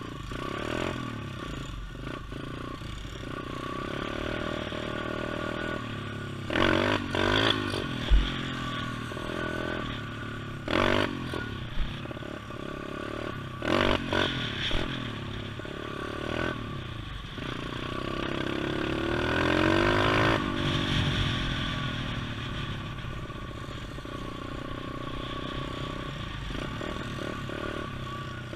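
Pit bike engine running and revving up and down repeatedly while riding, with a long climb in revs near the two-thirds mark and a couple of sharp knocks.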